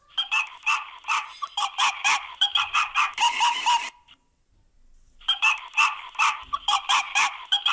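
A flock of birds calling: many quick, overlapping calls. They break off about four seconds in and start again about a second later.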